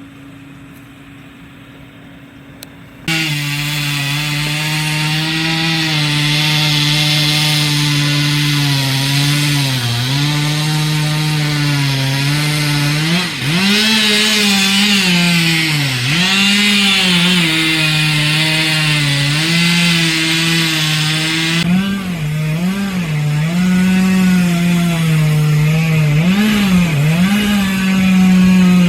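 Chainsaw cutting into a large old tree trunk. It comes in suddenly about three seconds in, and its engine pitch sags and recovers again and again as the chain loads up in the cut.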